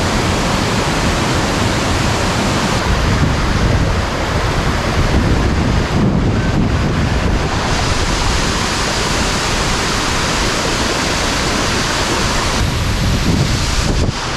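Waterfall rushing, a steady loud roar of falling water, with wind buffeting the microphone.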